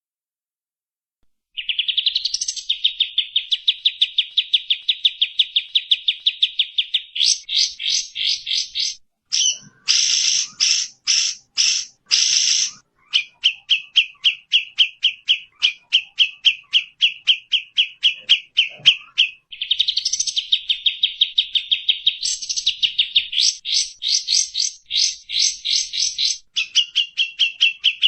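Bird calls from a songbird-training master recording of tengkek buto, cililin and kapas tembak. After about a second and a half of silence, a fast, unbroken string of sharp chirping notes begins, roughly ten a second, and shifts in pitch several times.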